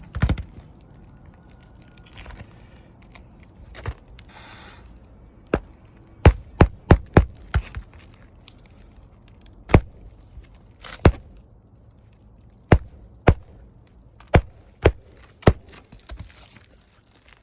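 Roofing nails being driven into replacement asphalt shingles: about a dozen sharp strikes, starting with a quick run of six about five and a half seconds in, then spaced singly and in pairs. Faint rustling of shingles being handled comes before the strikes.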